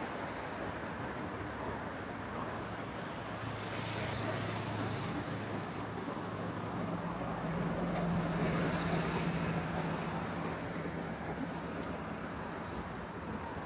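City street traffic: a steady wash of passing vehicles, with a low engine hum growing louder in the middle and fading again as a vehicle goes by.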